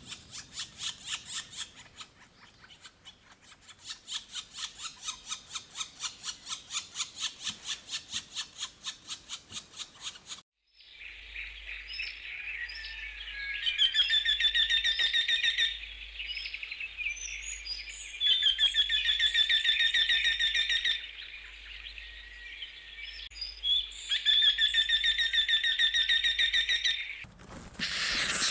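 Bird calls: first a long series of sharp notes repeated about four times a second, then, after a cut, a songbird singing three trilled phrases a few seconds apart, with softer chirps between them.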